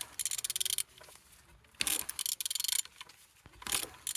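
Ratchet wrench clicking in quick runs, one stroke about every two seconds, as a used engine's crankshaft is turned over by hand. The engine turns freely, a sign that it is not seized.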